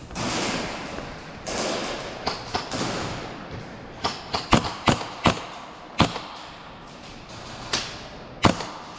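Airsoft guns firing sharp single shots at uneven spacing, a quick run of four about half a second apart, then a few more spread out, the last near the end. Before them, a stretch of rustling movement.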